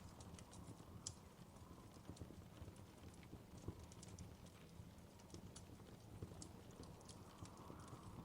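Faint wood fire crackling in a fireplace: irregular small pops and snaps over a low, steady rumble.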